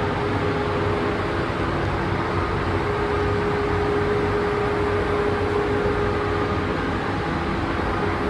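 A machine running steadily: an even rushing hum with one constant, unchanging tone over it.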